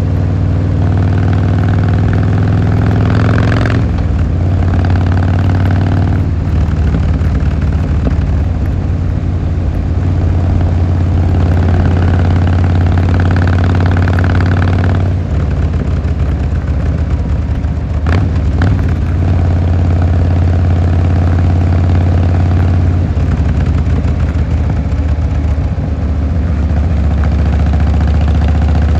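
Harley-Davidson Fat Boy Lo's air-cooled V-twin running through its exhaust, its note rising and then dropping off several times as the throttle changes, with the deep firing pulse steady underneath.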